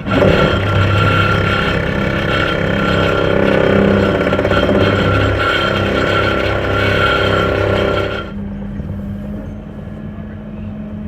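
Engine-driven water-jetting pump running hard for about eight seconds, then dropping back to a steady idle. It is jetting water down a pipe to sink a boat-lift piling into the bottom.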